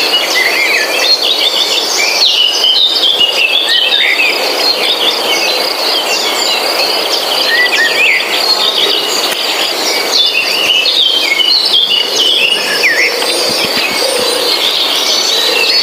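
Small birds chirping busily, with many short, quick calls, over a steady high insect drone.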